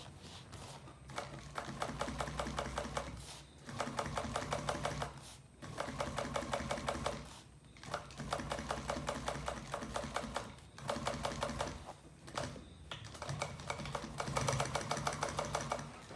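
Sewing machine stitching in quick, even runs of one to three seconds, stopping briefly between them.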